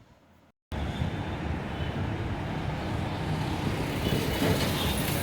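Steady rumble of busy road traffic, starting abruptly less than a second in.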